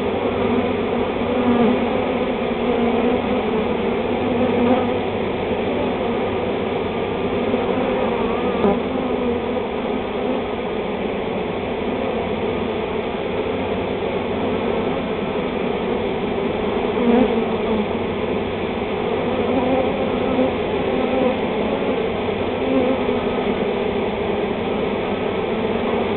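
A large swarm of honey bees buzzing in a continuous hum that wavers slightly in pitch as the swarm marches off a sheet into a new hive box.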